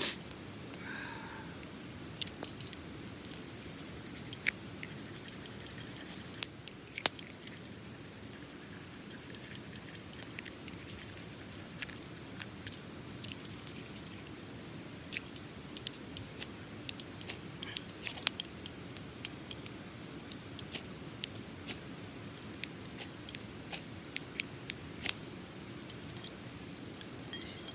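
Small wood fire crackling: sharp, irregular pops and snaps over a steady low rush of burning, with a faint hiss for a few seconds about ten seconds in.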